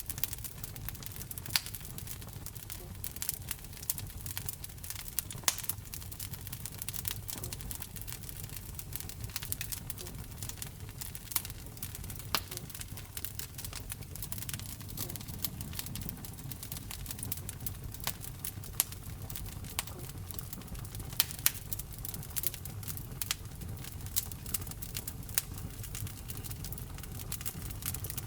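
Wood fire burning in a fireplace: irregular sharp crackles and pops, a few of them louder, over a low steady rumble of the flames.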